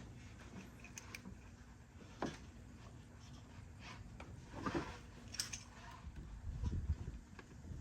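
Scattered light clicks and knocks of hand tools and metal parts being handled while working on a diesel engine's fuel injectors, with a low rumble of handling near the end.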